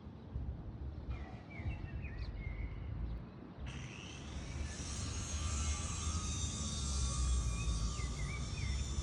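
Steady low rumble of outdoor noise, with a few short chirps about a second in and again near the end; a higher hiss sets in suddenly about four seconds in.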